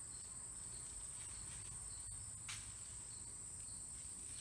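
Crickets trilling steadily at a high pitch, with a faint click about two and a half seconds in.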